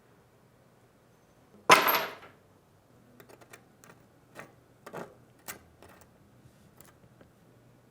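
A restored Browning pistol being handled: one loud metallic snap that rings off briefly, followed by a string of lighter clicks.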